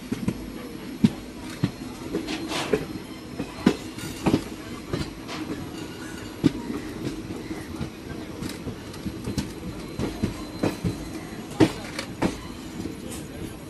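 An Indian Railways express train running at speed, heard from beside one of its own coaches. There is a steady rumble of wheels on rail, with irregular sharp clacks as the wheels run over rail joints and points.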